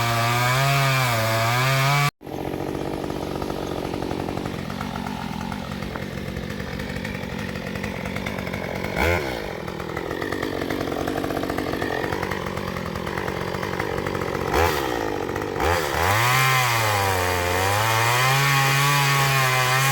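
Gas chainsaw cutting into a fallen tree, its engine pitch repeatedly dropping under load and climbing back. The sound cuts off abruptly about two seconds in and resumes with a duller, steadier note before the rising and falling pitch returns near the end.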